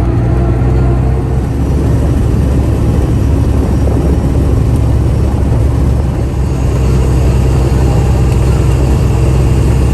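Steady low rumble of a vehicle's engine and road noise while driving at an even pace.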